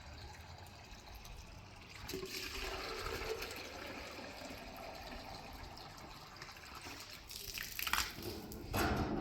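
Water running, louder from about two seconds in, with a louder burst near the end.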